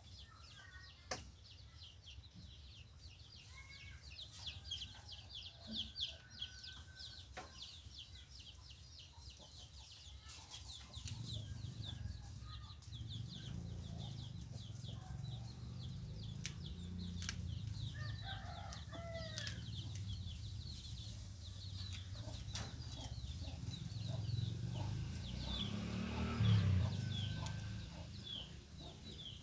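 White-breasted waterhens clucking and calling, over fast, continuous high chirping, with occasional clicks. A low rumble joins about eleven seconds in.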